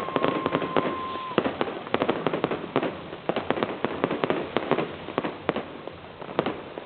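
New Year's fireworks: many rapid, irregular bangs and crackles from firecrackers and exploding shells. A firework whistles on one steady note for the first second and a half, and the bangs thin out near the end.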